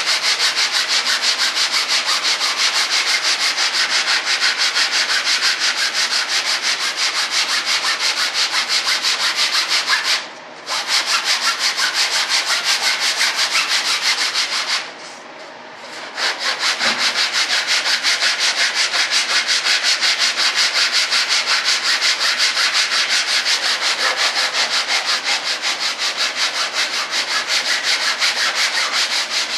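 Hand sanding with 80-grit sandpaper on a sanding block, rubbing down hardwood glued to a model aircraft's trailing edge. Rapid back-and-forth strokes at an even pace, stopping briefly twice near the middle.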